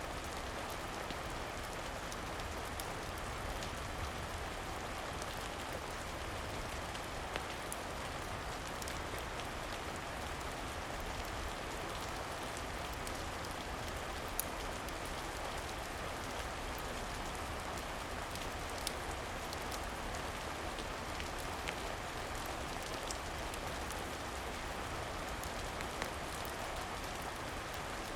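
Steady rain falling, a continuous even patter, with a few sharp isolated clicks every several seconds.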